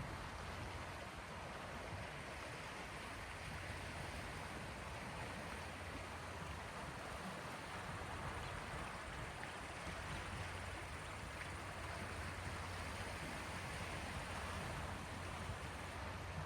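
Small sea waves washing on the shore, a steady even hiss of water with a low steady hum underneath.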